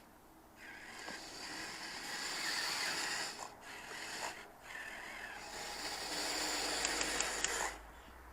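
Radio-controlled tracked model vehicle driving: its electric motor and tracks run for about seven seconds, easing off briefly twice in the middle, then stop.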